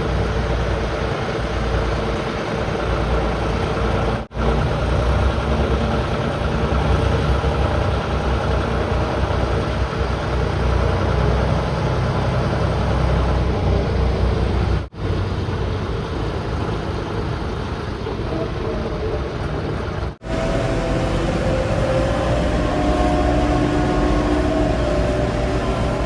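Heavy diesel engines of earthmoving and haulage vehicles running, in several short clips joined with abrupt cuts. Short, steady higher tones come in over the engine rumble in the last few seconds.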